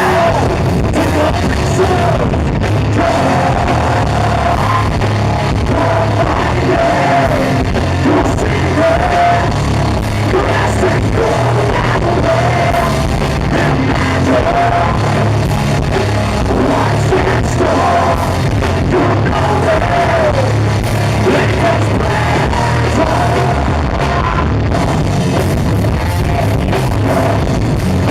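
Live heavy rock band playing, with distorted guitars, bass and drum kit under a sung and shouted lead vocal, loud and compressed as a crowd recording.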